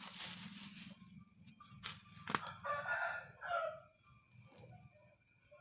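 A rooster crowing once, lasting about a second, its call falling in pitch at the end. A sharp click comes just before it.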